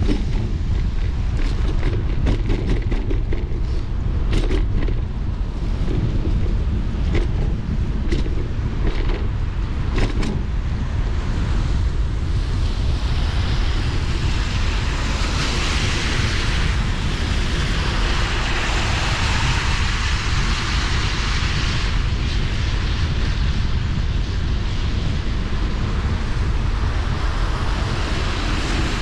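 Riding a bicycle on a wet path: wind buffets the microphone in a steady low rumble over tyre hiss, with a run of small clicks and rattles in the first ten seconds and a louder hiss from about halfway through until two-thirds of the way in.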